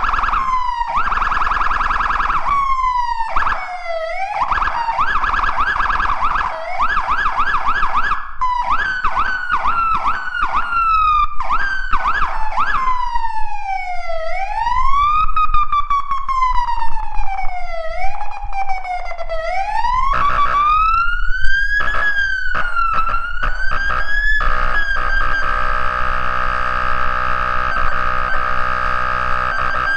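Fire engine siren demonstrated through several tones. It opens with a rapid warble, slows into a wail that rises and falls every couple of seconds about halfway through, then speeds up again and ends in a fast trill.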